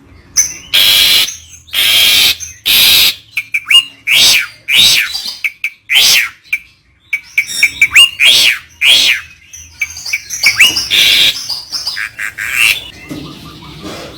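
Songbird calling: three loud, harsh, rasping calls in the first few seconds, then a run of quick, sharp chirps and whistled notes that slide up and down, with another harsh call about eleven seconds in.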